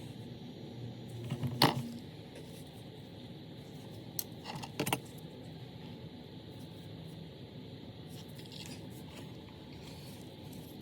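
Small metal parts clinking: one sharp click about one and a half seconds in, then a few lighter clicks around four to five seconds in, over a steady hiss.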